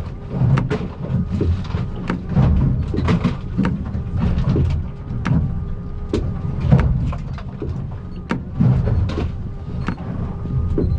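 Inside the cabin of an aluminium Stabicraft 2050 Supercab running through 2 to 3 foot swells: a steady low engine and hull rumble, broken by frequent irregular knocks and bangs as the hull slams into waves and gear rattles.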